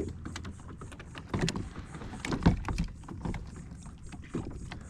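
Scattered knocks and clicks of things being handled aboard a kayak, with the loudest knock about two and a half seconds in, over a low steady background.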